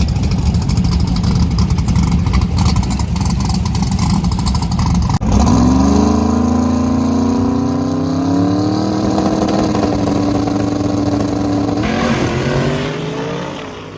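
Drag race car engine running loud and rough with a crackle. About five seconds in, after a sudden cut, it launches hard: the pitch climbs quickly, then holds high as the car runs down the strip, fading near the end.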